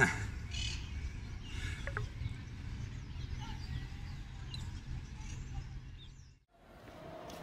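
Outdoor park ambience: scattered bird chirps over a steady low rumble, opening with a brief sharp sound. It drops out near the end.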